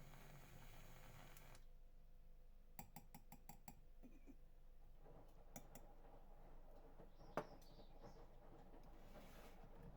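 Quiet room tone with a quick run of small clicks about three seconds in and one sharper click past the middle.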